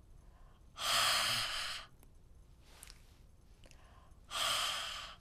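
A woman's voiceless 'h' sound, twice: air pushed out through an open mouth like a sigh, each about a second long, with no voice from the throat. It is the English consonant H as it should be said.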